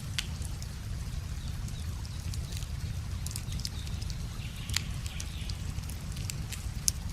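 Wood bonfire crackling: irregular sharp pops and snaps, two louder ones near the end, over a steady low rumble.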